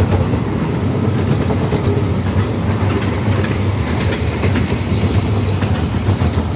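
Amusement-park railway train running along its track, heard from a riding car: a steady running noise of the cars on the rails, with faint, irregular clicks from the wheels.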